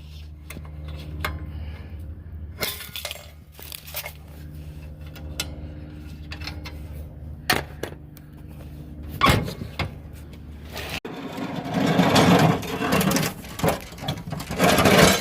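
A machine running with a steady low hum, with scattered knocks and clatter over it; the hum stops suddenly about eleven seconds in and a louder rushing noise with more knocks follows.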